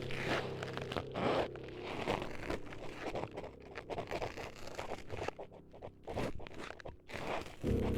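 Irregular close-up scraping and crunching strokes rubbed right against the microphone, ASMR-style, over a low steady drone that swells back in near the end.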